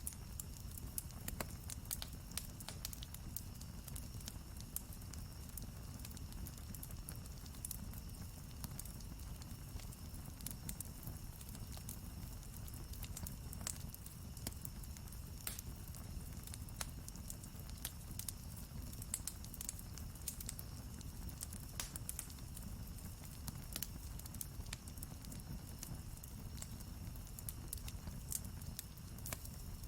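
Wood campfire burning, with frequent small sharp crackles and pops over a steady low rumble of the flames.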